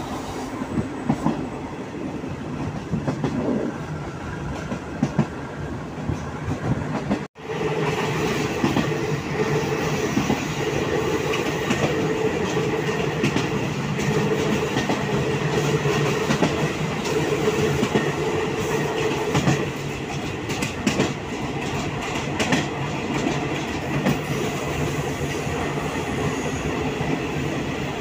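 State Railway of Thailand passenger train running on the line, heard from an open carriage window: a steady rumble of the carriages with wheels clicking over the rail joints. The sound cuts out for an instant about seven seconds in.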